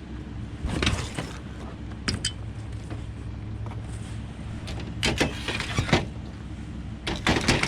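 Scrap aluminum pieces rattling and clanking as they are picked up and sorted through by hand, in a few short clusters about a second in, around the middle and near the end, over the steady hum of an idling vehicle.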